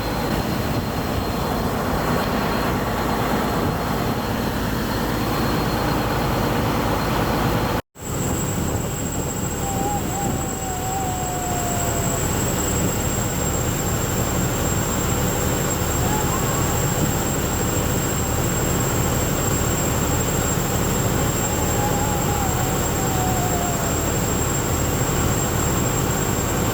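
Longtail boat engine running steadily at speed, a loud even drone with water and wind noise, broken by a brief dropout about eight seconds in.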